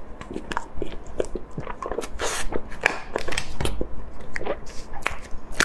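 Close-miked chewing and wet mouth sounds of someone eating soft layered cake from a plastic push-up tube: a busy run of small, sharp clicks and smacks.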